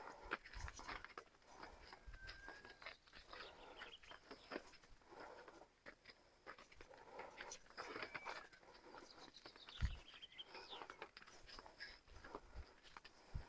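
A quiet shelter with faint, scattered crunches and clicks of dogs chewing treats, and a few faint high calls here and there.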